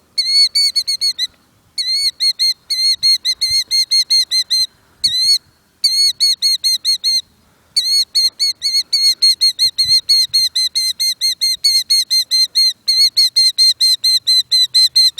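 A killdeer calling in alarm to defend its nest: a rapid, loud series of short, high-pitched notes, about five a second, broken by a few short pauses and nearly unbroken in the second half.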